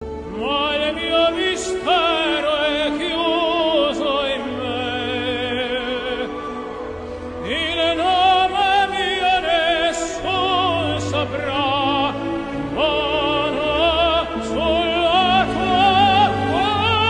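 Operatic singing: a voice holding long notes with a wide vibrato, sliding up into several of them, over an instrumental accompaniment with sustained low notes.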